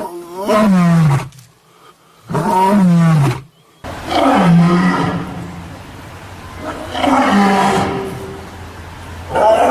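A large animal calling: about five drawn-out, pitched calls, each sliding down in pitch, with abrupt breaks between the first few.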